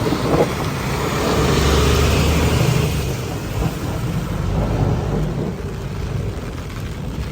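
Steady rain, with a vehicle passing on the wet road: a rumble and tyre hiss swell about a second in and fade away by about three seconds.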